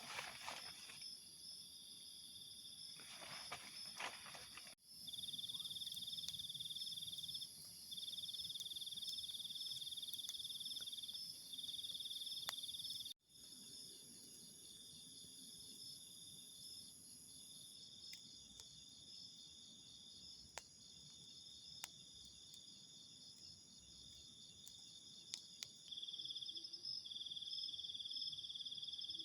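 Crickets and other night insects trilling in several steady layers, with one louder trill coming in phrases of a few seconds at a time. Some brief rustling in the first few seconds, a few faint clicks, and the sound cuts out for an instant twice.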